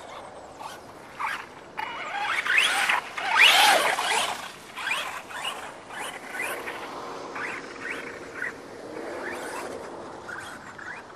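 Electric R/C monster truck's motor whining up and down in pitch as it is throttled, over noisy bursts of tyres churning and splashing through mud, loudest about three and a half seconds in.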